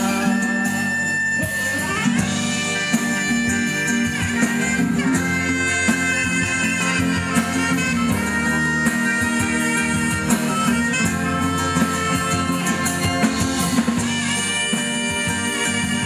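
A live band playing an instrumental break with no singing: a sustained melody line over accompaniment and a regular beat.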